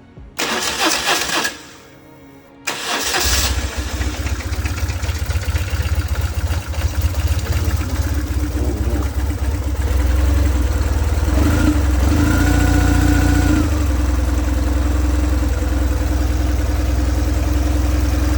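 2000 BMW R1150GS boxer-twin engine being started: a short burst of cranking, a pause, then a second crank on which it catches about three seconds in and settles into a steady idle. This is the first start after an oil change, run to circulate the fresh oil.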